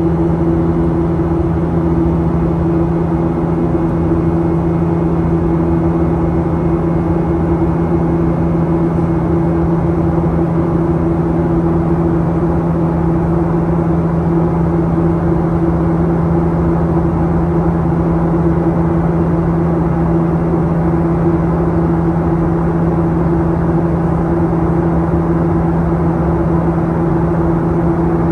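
Steady cabin noise of a Boeing 737-800 in flight: the constant hum of its CFM56 jet engines and rushing air, with a steady low drone and no change.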